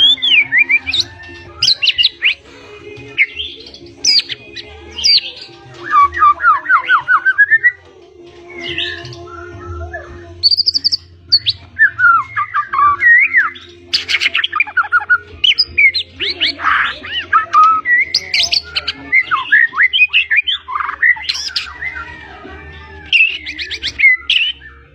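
White-rumped shama singing a loud, fast, varied song of whistles, rapid trills and sweeping notes in quick bursts with brief gaps. The song is packed with mimicked phrases of other birds.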